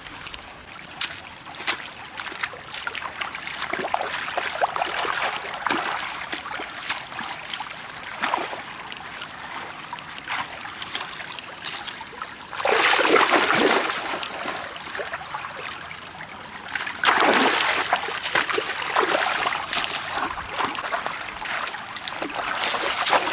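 Water trickling and splashing, with scattered small clicks and knocks, and two louder splashing surges of about a second and a half each, a few seconds apart, near the middle.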